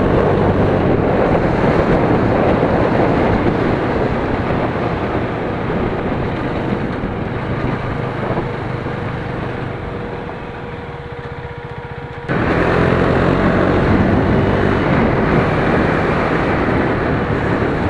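A 2017 KTM Duke 390's single-cylinder engine running on the move, under heavy wind rush on the microphone. The sound eases off gradually over about twelve seconds while a steady whine comes in, then jumps back loud all at once about twelve seconds in.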